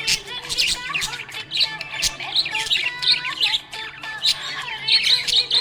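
Pet budgerigars chirping and squawking in a rapid, overlapping stream of short calls.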